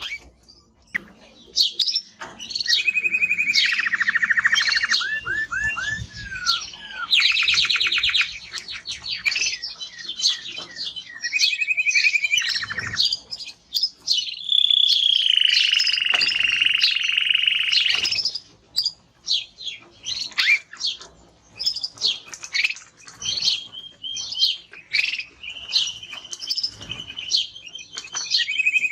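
Male Spanish timbrado canary singing a long unbroken song of fast trills and rolling, slurred notes, with one long held whistled tone about halfway through, followed by choppy notes and more trills.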